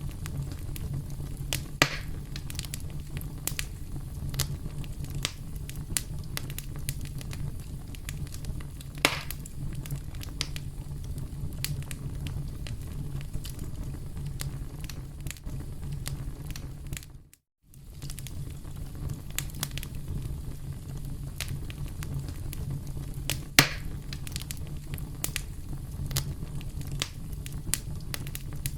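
Campfire burning: a steady low rumble of flames with frequent small crackles and pops, and a few louder snaps. About two-thirds of the way through, the sound drops out briefly and then resumes.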